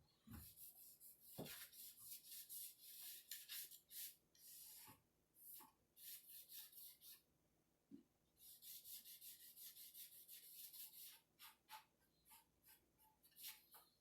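A damp paper napkin wiped over freshly sanded cedar wood in quick, short rubbing strokes, lifting off the sanding dust, with a few soft knocks between strokes.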